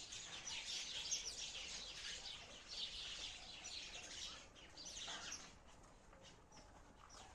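Sparrows chirping: a dense run of short, high chirps that thins out about two-thirds of the way through.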